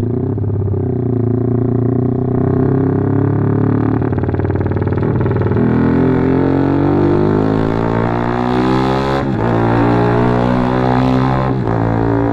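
Motorcycle with an aftermarket Norifumi racing exhaust being ridden and accelerated. The engine note climbs steadily, then drops sharply about nine seconds in and again near the end as it shifts up a gear.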